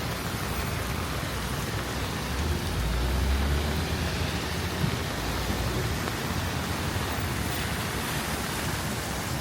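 Steady rain falling, an even hiss, with a low rumble swelling and fading a little under halfway through and a single short knock soon after.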